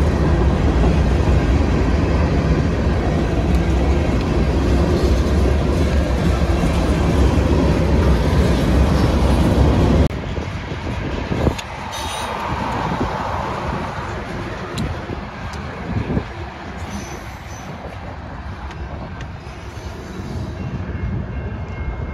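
Freight train of covered hopper cars rolling past close by: a loud, steady rumble of wheels on rail. About ten seconds in it cuts to a quieter freight train of boxcars passing at a distance, with scattered clicks of wheels over the rails.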